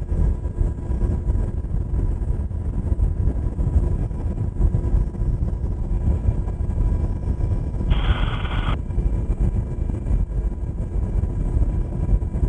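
Steady drone of a UH-60 Black Hawk helicopter's rotor and twin turboshaft engines, heard from inside the cabin through the crew intercom, with faint steady tones running through it. About eight seconds in, a short wordless burst from the radio lasts under a second.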